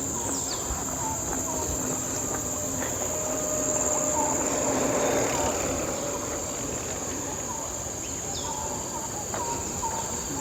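Steady high-pitched insect drone, with short, repeated bird chirps over it; a broad hiss swells and fades in the middle.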